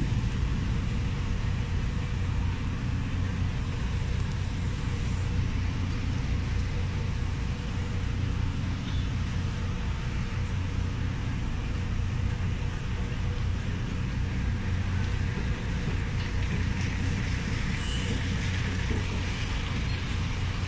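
Steady low engine rumble and road noise heard inside a slow-moving vehicle's cabin, with a brief high-pitched sound near the end.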